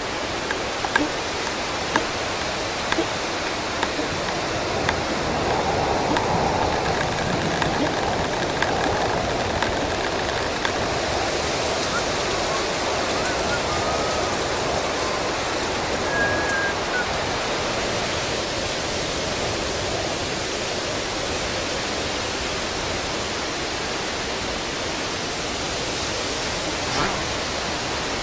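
Steady rushing wind sound effect, with faint clicks during the first ten seconds or so.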